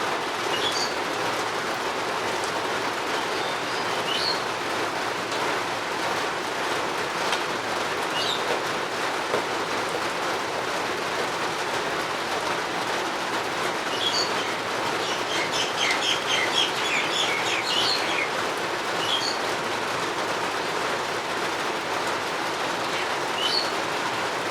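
Steady rain falling, with birds chirping now and then over it and a quick run of chirps about two-thirds of the way through.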